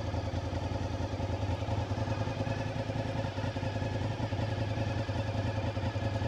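Honda VTR SP2 (RC51) 90-degree V-twin motorcycle engine idling steadily through aftermarket silencers.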